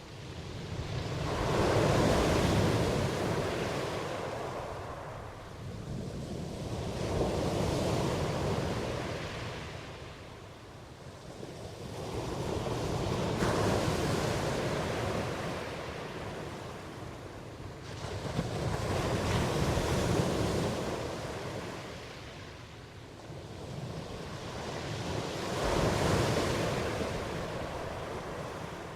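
Ocean waves washing in, rising and falling in five swells about six seconds apart.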